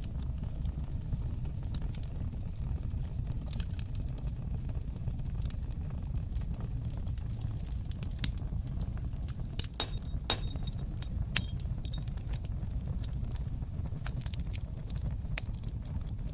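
Fire burning in a stone fireplace: a steady low rumble of flames with scattered crackles and pops. A cluster of sharp snaps comes about ten seconds in, with the loudest single pop just after.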